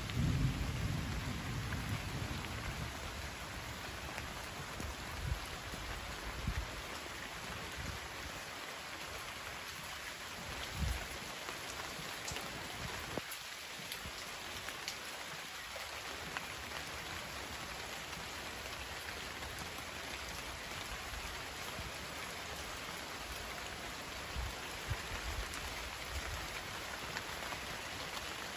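Steady rain falling. A low rumble of thunder dies away over the first couple of seconds, and a few brief low thumps come later.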